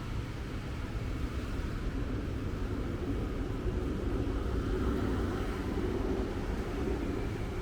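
Steady city road traffic rumble, swelling a little around the middle as vehicles pass.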